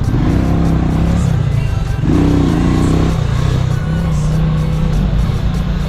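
Motorcycle engine running on the road, with its pitch rising and falling slightly, under background music.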